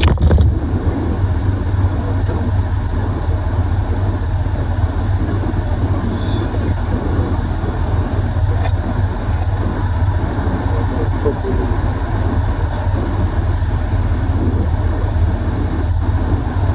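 Steady low rumble of a dually pickup truck with an even hiss over it, heard from inside the cab.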